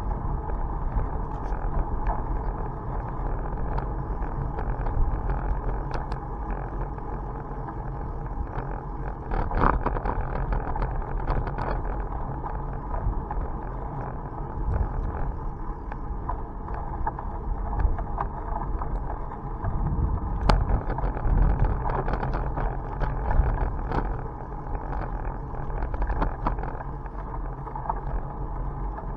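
Wind buffeting the microphone and rumble from a bicycle riding along a road, with scattered light clicks and knocks.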